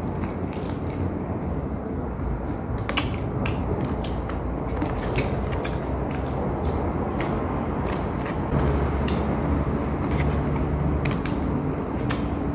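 Close-up eating of crispy fried chicken: biting and chewing with irregular crisp clicks and wet mouth sounds.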